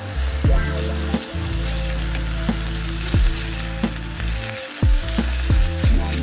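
Chicken drumsticks and onions sizzling in hot oil in a pan while a silicone spatula stirs them, scraping and knocking against the pan several times.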